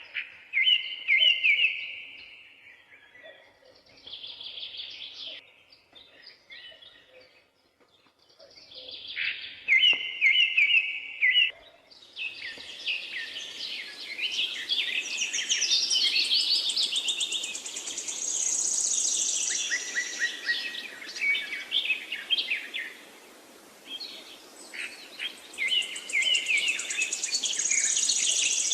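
Songbirds singing: one bird repeats the same short phrase several times. From about twelve seconds in, more birds chirp over a steady hiss of background noise.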